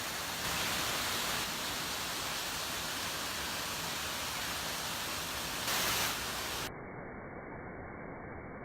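Steady rushing of flowing water, an even hiss with no distinct events. About two-thirds of the way in the sound turns duller and slightly quieter as its upper range drops away.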